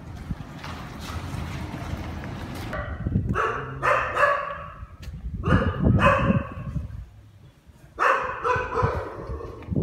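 Dogs barking in three short bouts, guarding against a person standing near their yard. Wind rumbles on the microphone before the barking starts.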